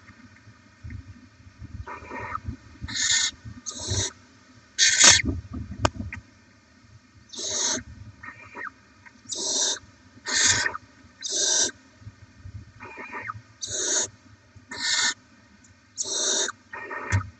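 Barn owl chicks giving repeated raspy, hissing begging calls, short bursts about once a second, with some scuffling in the nest box.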